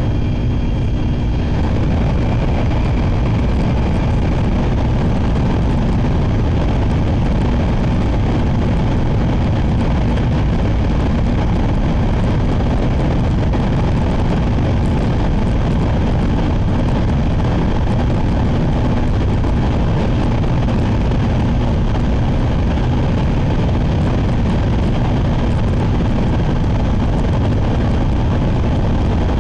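Shinkansen train running at speed, heard from inside the passenger cabin: a steady, loud rumble and rush of running and wind noise that holds an even level.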